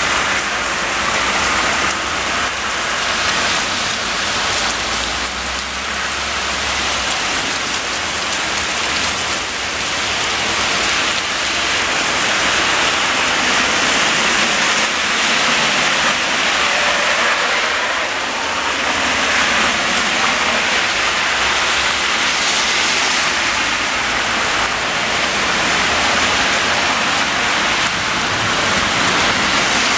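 Intense rainfall from a high-precipitation supercell: a loud, steady downpour hissing on surfaces.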